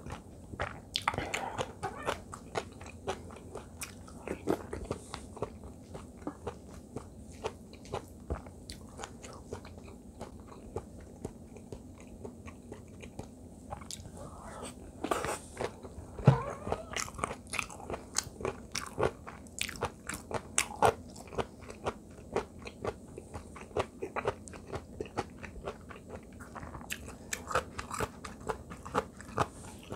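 Close-miked chewing of radish-kimchi fried rice: moist, irregular crunching and mouth clicks as the cubes of kkakdugi radish are bitten through, with occasional clicks of a spoon against the metal pan.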